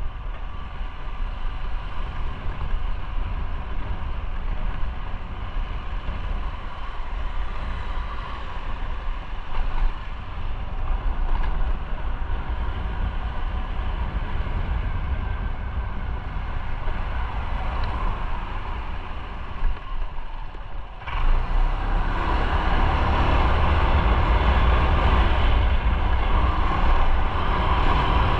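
Motorcycle on the move in road traffic: engine running under steady road noise, which grows suddenly louder and fuller about three-quarters of the way through.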